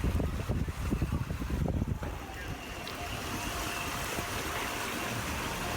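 Vehicle ploughing through deep floodwater: water rushing and churning, with gusty rumbling on the microphone for the first two seconds, then a steadier rush with a faint thin whine.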